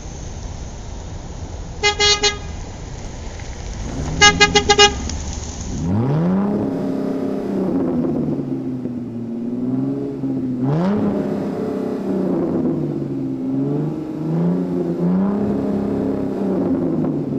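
Car horn tooting: two short toots, then a quick run of five. It is followed by a car engine revving and accelerating, its pitch rising and falling several times.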